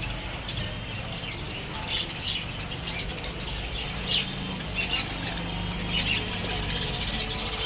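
Many small caged birds chirping and squawking in quick, scattered calls, over a steady low rumble.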